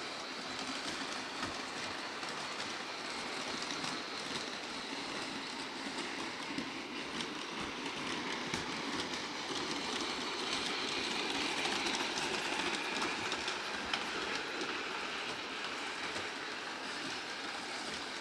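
Bachmann Big Hauler large-scale model train running in reverse along its track: a steady whirring run with the wheels clicking over the rail joints, growing a little louder toward the middle, then easing.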